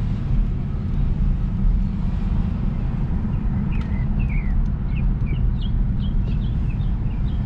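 Steady low rumble of a car on the road, with a bird chirping repeatedly, short falling notes, over the second half.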